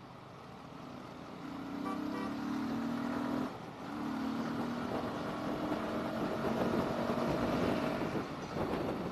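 Yamaha R15 V3's 155 cc single-cylinder engine pulling hard under acceleration, with a brief dip about three and a half seconds in as it shifts up a gear. Wind noise builds as the speed rises.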